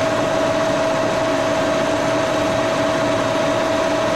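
1942 Brown & Sharpe No. 2 milling machine running its vertical spindle at 1550 rpm, a 1-inch end mill cutting across the end of an aluminum block, with a steady whine over the machine's hum.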